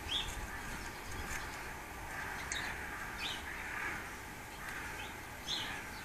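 Garden birds giving short, sharp calls, about four single notes spaced a second or more apart, over a steady background hiss.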